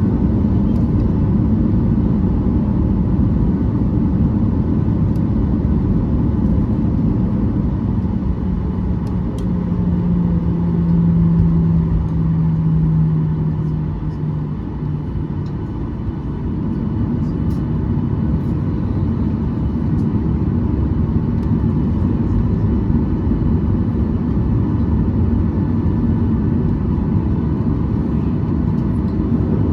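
Cabin noise of a Boeing 737-800 lining up on the runway before takeoff: a steady low rumble from its CFM56-7B engines at low thrust. A low hum stands out for several seconds midway, then steps down in pitch and fades.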